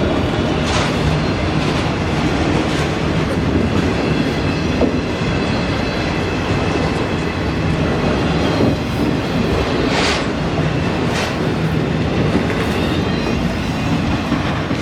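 Train rolling past, a steady loud rumble with a low hum, and the wheels clicking sharply over rail joints a few times.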